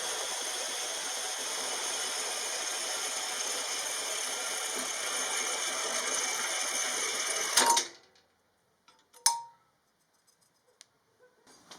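A steady, even, hiss-like workshop tool noise that cuts off suddenly about eight seconds in, followed by near silence with a few faint clicks and one sharper click.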